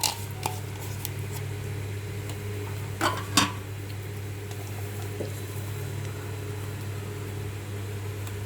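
Steady low electrical hum with kitchen utensils knocking: a clink at the start and a couple of knocks about three seconds in.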